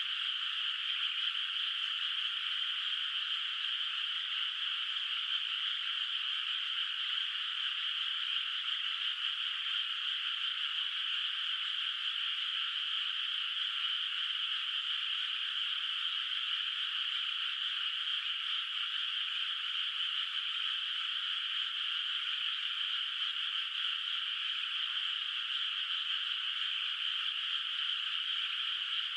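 A dense chorus of many frogs calling in a flooded rice paddy, so many voices overlapping that they merge into one steady, unbroken high-pitched din, with no single call standing out and nothing low underneath.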